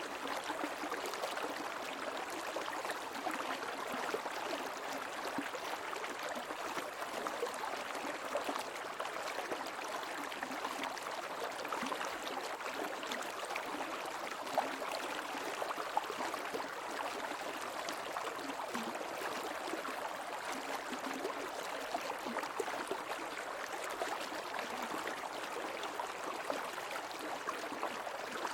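Stream water flowing steadily, a continuous rushing with small gurgles and splashes scattered through it.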